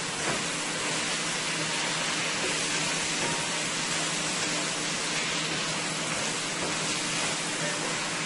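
Potatoes frying in oil in a pot: a steady sizzling hiss.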